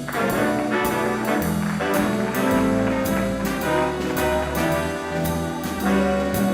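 Small swing band playing live: trumpet, trombone and saxophones hold notes over upright bass and drums, with a steady beat.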